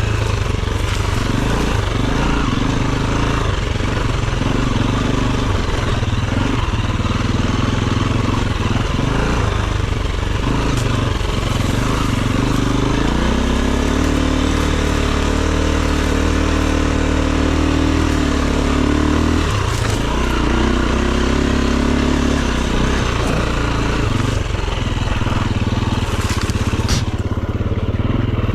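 Off-road dirt bike engine running under load, its revs rising and falling with the throttle and held higher for several seconds around the middle, with constant rattle and noise from the trail.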